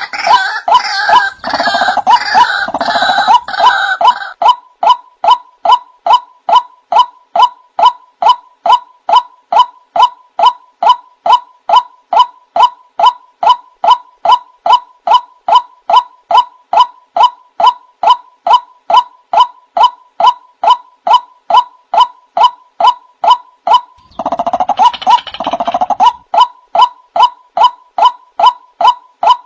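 Male white-breasted waterhen calling: a long run of loud, monotonous 'wak' notes at about two a second. Busier, overlapping calling at the start gives way to the steady series, and a second burst of overlapping calls breaks in about 24 seconds in.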